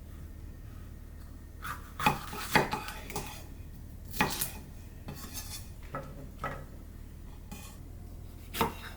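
Kitchen clatter of dishes and utensils being handled: a string of irregular knocks and clinks over a low steady hum.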